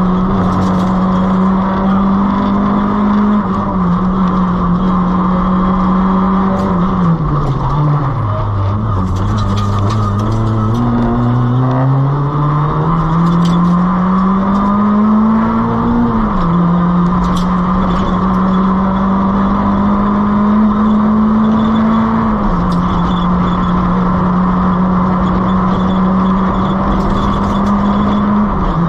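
Nissan Micra K11's 1.3-litre four-cylinder engine run hard on a rally stage. It holds steady high revs, falls sharply about eight seconds in, climbs steadily through the gear for some eight seconds, drops at an upshift and holds steady again to the end. Scattered sharp clicks run over it.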